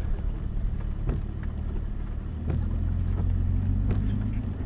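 Off-road truck's engine running low and steady as it drops down a rough trail, getting a little louder about halfway through, with a few scattered knocks and clunks as it bounces.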